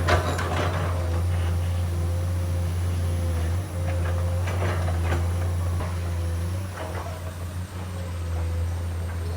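Komatsu PC210 hydraulic excavator's diesel engine running steadily under work, with a few sharp metallic clanks and rattles, one right at the start and others around the middle.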